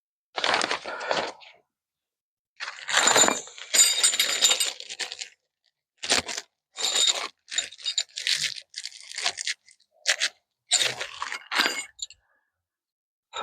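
Metal tools and parts being handled, with short bursts of scraping, crunching and clinking, some with a faint metallic ring, and gaps of quiet between them.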